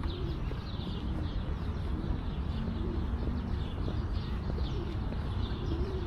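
Pigeons cooing, a low rising-and-falling call repeated about once a second, over many small birds chirping high and quick throughout.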